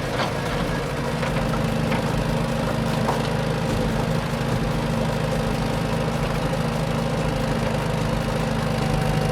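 Vehicle engine running steadily with a low, even hum and a few faint clicks in the first few seconds.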